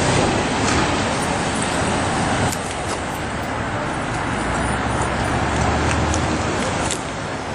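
Steady motor-vehicle noise: a car engine idling with traffic noise around it.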